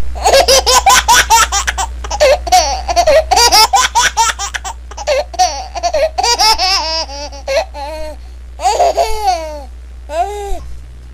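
A young child laughing in quick high-pitched bursts, then breaking into squealing giggles that rise and fall.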